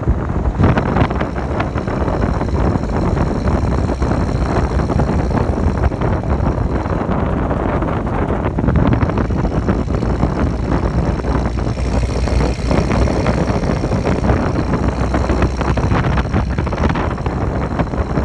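A vehicle running steadily with dense rumbling noise, with faint high-pitched whining tones growing stronger about two-thirds of the way in.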